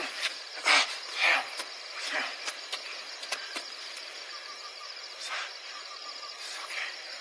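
Insects chirring steadily in a night-time outdoor ambience, broken by a few short breathy sounds.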